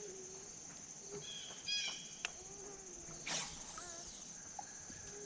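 A steady, high-pitched insect drone, like crickets or katydids, with a few short bird chirps and calls over it and a couple of sharp clicks.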